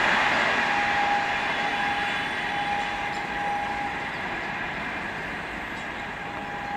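Rake of red LHB passenger coaches running away along the track, the wheel-on-rail noise slowly fading as it recedes, with a thin whine that comes and goes.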